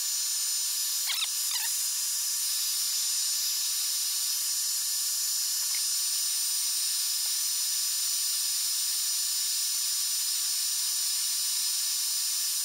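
Hot-air blower running at a steady pitch with a constant hiss, heating the iPad's glued glass to soften the adhesive.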